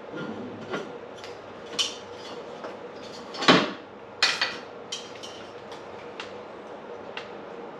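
Metal parts and tools clinking and clanking as they are handled on a workbench: a string of separate sharp knocks with short ringing, the loudest two in the middle, over a steady hum.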